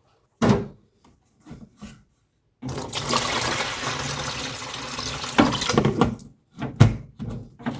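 Water pouring or gushing steadily for about three and a half seconds, starting and stopping abruptly, with a few knocks and thumps of handling before and after.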